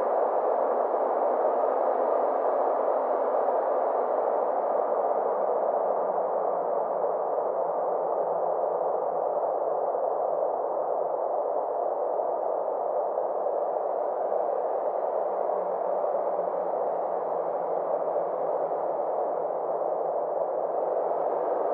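Steady, softly filtered drone of synthesized noise centred in the mid range, with a faint low hum underneath that slowly swells and fades, a space-ambience sleep sound.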